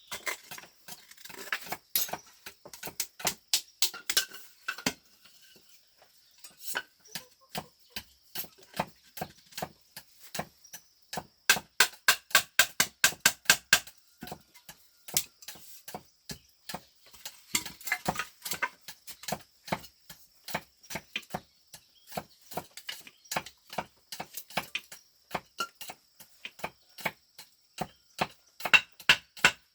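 Repeated sharp chopping strikes, about four or five a second at their quickest, in runs with a short pause about five seconds in.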